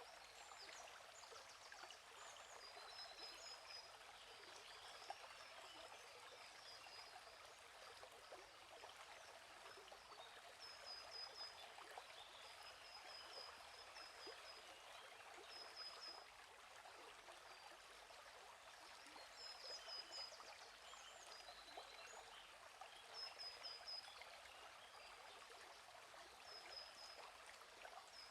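A quiet, steadily flowing stream trickling and bubbling. Over it a bird gives short high chirps in quick groups of two to four, repeated every few seconds.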